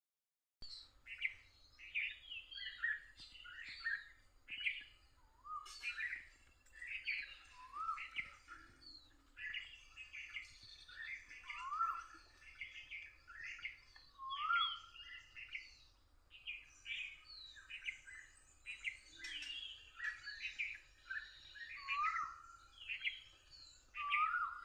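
Birds singing: a steady run of short chirps and whistled notes, with a lower rising whistle repeated every few seconds.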